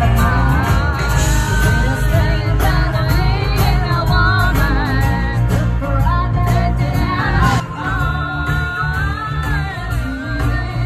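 Live band playing a rock song, a lead singer over heavy bass and steady drums.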